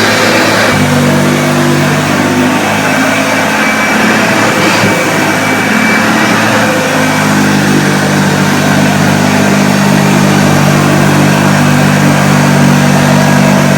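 1976 Hoover Starlight vacuum cleaner running over carpet: a loud, steady motor hum over an airflow hiss, which shifts in pitch about a second in and again around seven seconds in.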